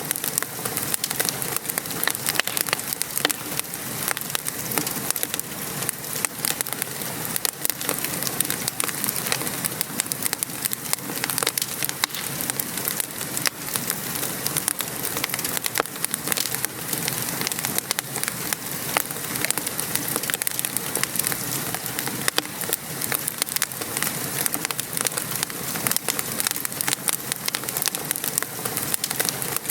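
Steady rain pattering on a surface, mixed with the crackle and pops of a wood fire in a fireplace.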